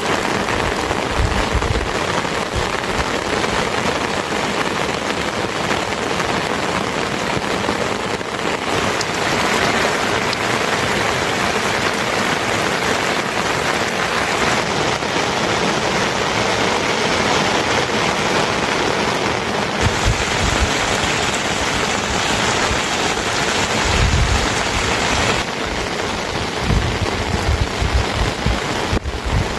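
Rain falling steadily, with a few brief low thumps in the second half.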